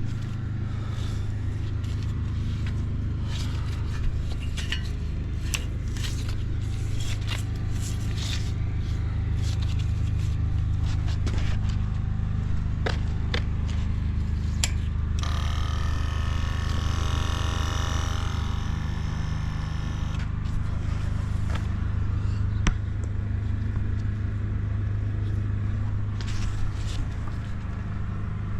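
Yamaha Drag Star 400 Classic's air-cooled V-twin idling steadily, with scattered light ticks. The sound is that of an engine the seller describes as running smoothly with no abnormal noises. A hiss rises over it for a few seconds about halfway through.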